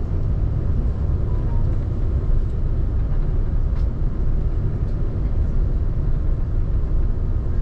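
Steady low rumble heard inside the cabin of an Airbus A380 on the ground before takeoff: engine and air-conditioning noise.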